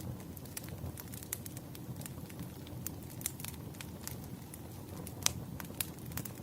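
Campfire burning: a steady low rumble of flames with frequent, irregular sharp crackles and pops, one louder pop about five seconds in.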